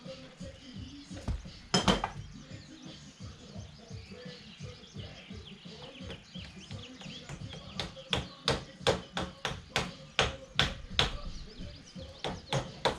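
Hammer blows on metal: one hard strike about two seconds in, then a steady run of sharp strikes, about three a second, over the last five seconds. This fits work on the mower's spindle shaft, key and pulley.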